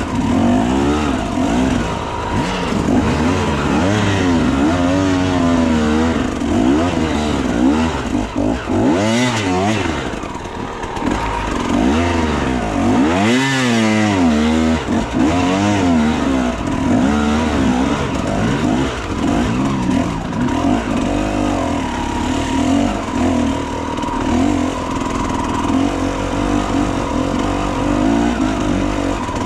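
Enduro motorcycle engine revving up and down as it climbs the trail, the pitch rising and falling repeatedly, with sharp throttle blips about nine and thirteen seconds in.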